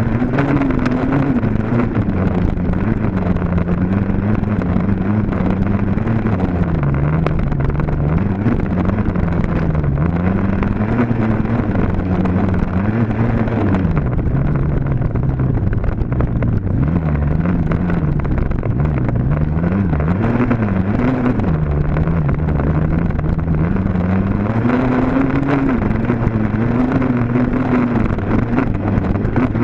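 Dirt bike engine being ridden hard, its pitch rising and falling over and over as the rider works the throttle and shifts.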